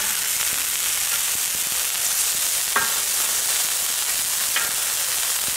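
Burger patties, onions, tomatoes and bacon sizzling steadily on a hot steel fire plate, with two short faint clinks about halfway through and near the end.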